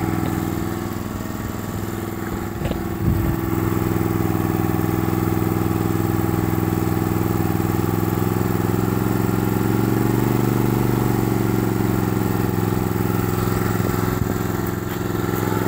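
Old Honda portable generator's engine running steadily just after being started, with one brief knock about three seconds in.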